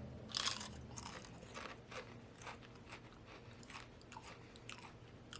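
A Pringles potato crisp bitten with a loud crunch about half a second in, then chewed with a string of smaller, irregular crunches.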